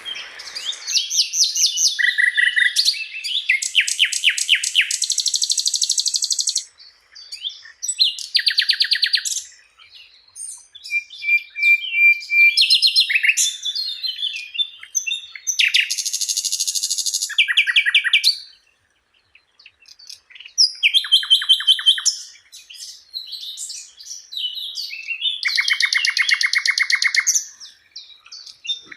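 A songbird singing a loud, varied song of rapid trills and chirps in phrases of one to three seconds with short pauses between. This is a masteran, the recorded song played to tutor caged songbirds.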